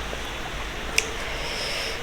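Close-miked eating: mouth and chewing noises, with one sharp click about a second in, over a steady hiss.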